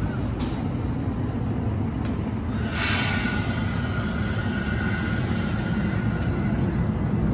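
Passenger train running, a steady low rumble of wheels on track, with a short hiss about three seconds in followed by a faint thin squeal for a few seconds.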